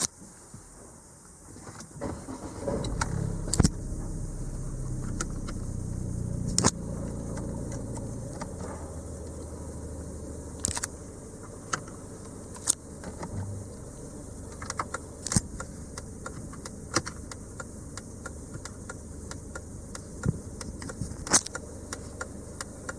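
Volvo V70's B4164T 1.6-litre turbocharged four-cylinder engine starting about two seconds in, running louder for a few seconds, then settling to a steady idle. Sharp clicks and knocks come now and then over the running engine.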